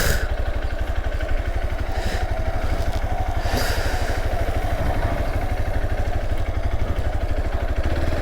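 Motorcycle engine running steadily while riding, with a few brief rushes of wind noise on the microphone.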